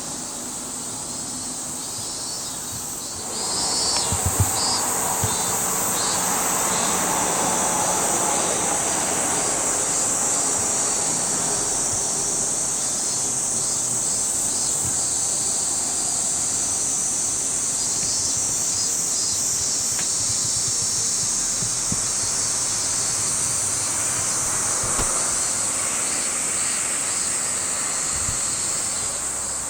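Chorus of summer insects: a steady, high, shrill drone that swells about three seconds in and then holds.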